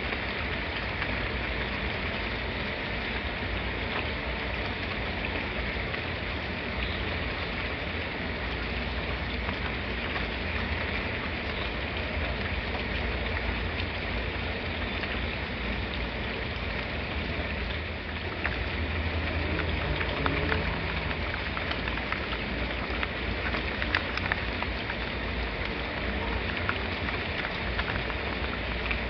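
Steady rain falling, with a low rumble underneath and scattered sharp drip ticks. The rumble swells slightly about two-thirds of the way through.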